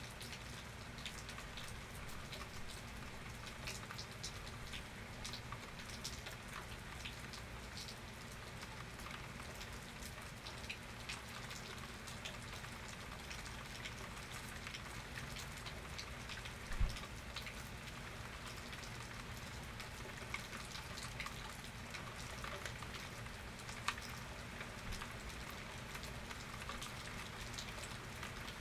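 Steady rain falling and pattering on surfaces, with many scattered sharp ticks of single drops and one short low thump about two-thirds of the way through.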